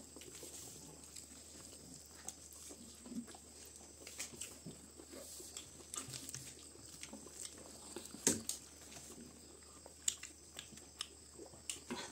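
People eating rice by hand off a banana leaf: faint chewing and wet mouth sounds with scattered small clicks and rustles of fingers on the leaf, one louder click a little past the middle.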